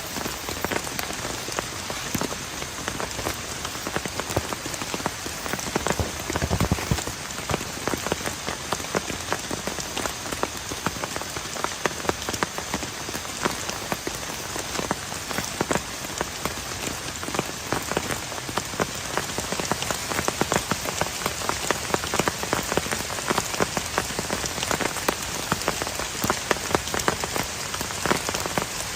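Heavy rain falling on a plastic tarp, a dense steady patter of many close drop impacts. A brief low rumble rises about six seconds in.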